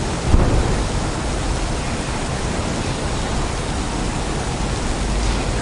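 Rainy city street ambience: a steady, even hiss of rain and wet surfaces, with a dull low thump about a third of a second in and a low rumble swelling near the end.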